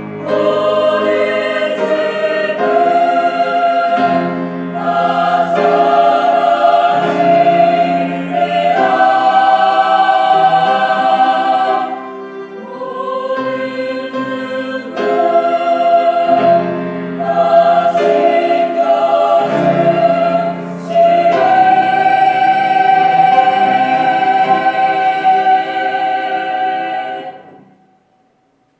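Church choir singing a slow hymn anthem in sustained chords, closing on a long held final chord that dies away near the end.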